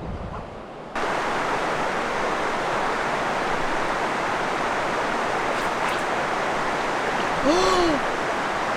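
Steady rushing of a fast-flowing mountain river, cutting in abruptly about a second in, with a short voice sound near the end.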